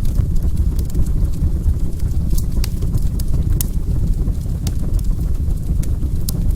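Fireplace fire burning: a steady low rumble of flames with irregular sharp crackles and pops.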